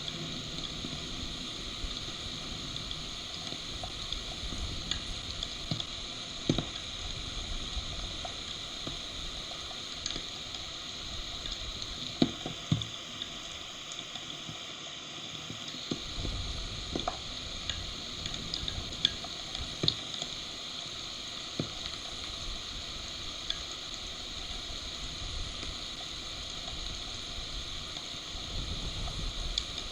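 Heavy rain pouring on the stork nest and the nest camera: a steady hiss scattered with sharp ticks of drops hitting close by. A low rumble swells and fades in the second half.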